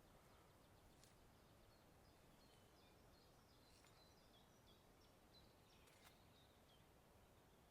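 Near silence: faint outdoor ambience with distant birds chirping, mostly in short high notes through the middle, and a few faint clicks.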